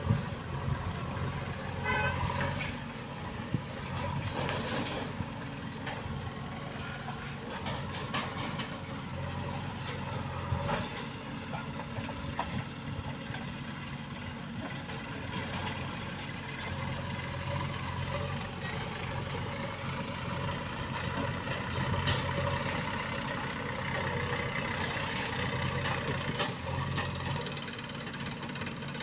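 Heavy diesel engine of a JCB backhoe loader or tractor running steadily, with a few sharp knocks now and then.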